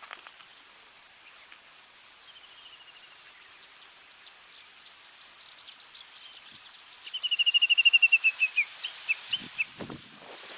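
Japanese bush warbler calling: a quiet run of quick repeated notes, then a loud rapid series of about a dozen slightly falling notes, breaking into a few spaced notes, over a steady outdoor hiss. A low thump comes near the end.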